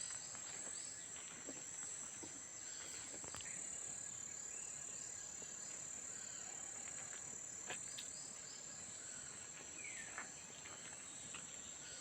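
Steady, high-pitched drone of insects, with a few faint bird chirps over it, including one falling call about ten seconds in.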